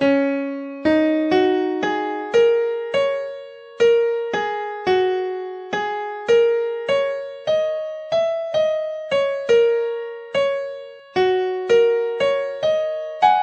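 Background music: a simple melody played one note at a time on an electric piano or keyboard, about two notes a second, each note struck and fading.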